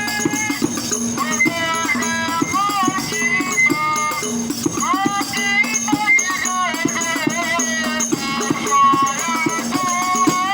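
Hadroh music: rebana frame drums and jingles keep up a quick, even rhythm under a singer's ornamented, wavering melody.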